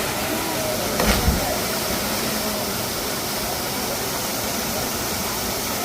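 Steady rushing roar of a waterfall, with a brief low thump about a second in.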